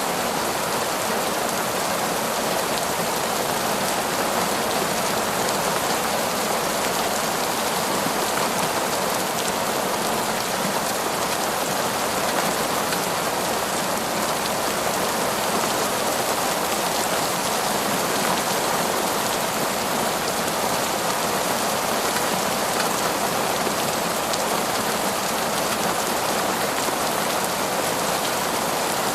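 Heavy torrential rain falling steadily, a dense, even hiss of countless drops with no thunder or breaks.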